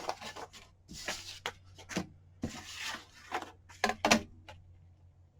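Sheets of paper ephemera being handled and shuffled: several short rustles with a few light taps and clicks on the desk.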